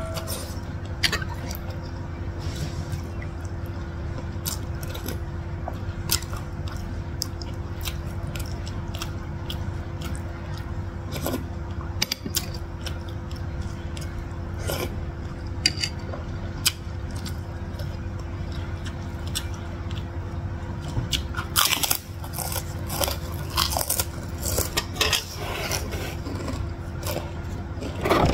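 Close-miked eating sounds: chewing, biting and wet mouth clicks while eating rice, bakso meatballs and rice-vermicelli noodles, busier near the end, over a faint steady hum.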